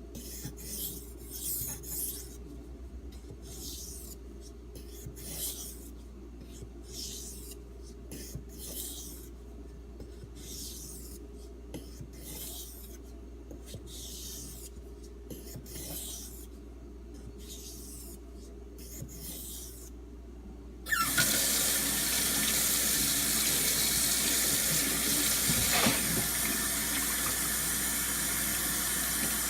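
D2 steel knife blade stroked rhythmically across a 3000-grit Arkansas water stone, a repeated short scraping hiss, about one to two strokes a second. About three-quarters of the way in, a water tap is turned on and runs steadily, louder than the strokes.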